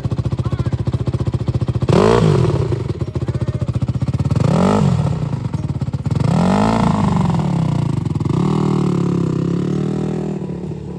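Dirt bike engine running, revved up and back down three times, then holding a steadier, wavering note that fades near the end.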